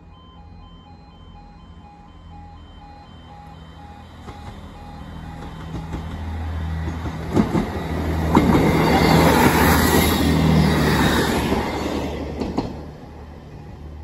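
East Midlands Railway Class 158 diesel multiple unit passing over a level crossing. It grows louder from about four seconds in, with several sharp wheel clacks over the rail joints, and cuts away suddenly near the end. The crossing's pulsing two-tone alarm sounds beneath it.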